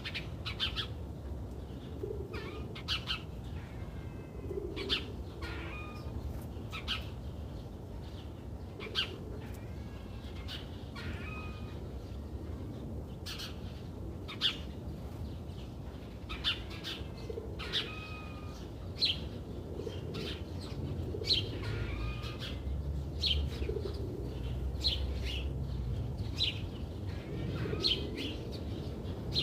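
Small birds chirping, with many short, separate high chirps scattered throughout and a few lower calls, over a steady low rumble.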